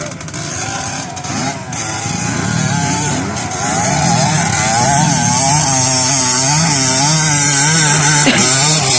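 Small motorcycle engine revving unevenly, its pitch rising and falling over and over as the throttle is worked. It grows louder about four seconds in.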